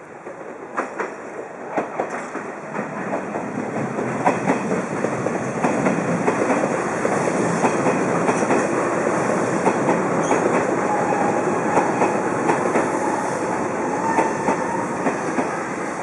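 Hanshin 8000-series electric train passing close by, its wheels clattering over the rail joints and growing louder over the first few seconds as it draws level. A faint squeal of the wheels is heard for a couple of seconds after the middle.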